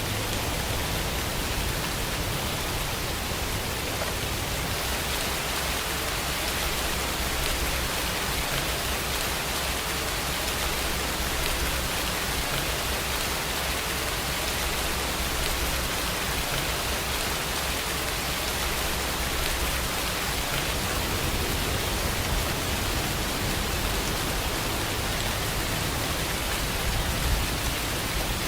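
Steady, even rain falling, a constant hiss of drops.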